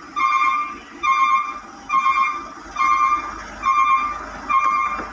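A concrete mixer truck's reversing alarm beeping steadily, about six evenly spaced half-second beeps, each a little under a second apart, signalling that the truck is backing up.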